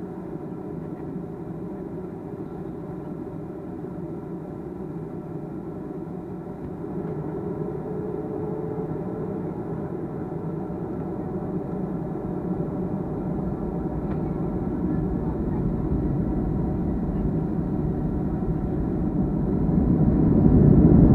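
Boeing 737-300's CFM56 jet engines heard inside the cabin, a steady whine over a low rumble that grows gradually louder and then rises sharply near the end as thrust builds for take-off.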